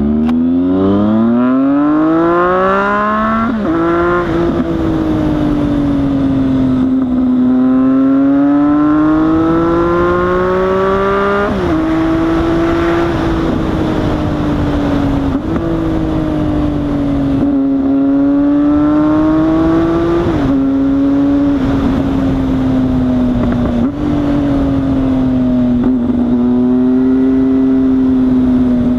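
Triumph Speed Triple 1050's three-cylinder engine running with its exhaust cans removed, under way and heard from inside the rider's helmet. The note rises through the first few seconds, drops at a gear change about four seconds in, then cruises with the revs rising and falling gently and several more shifts.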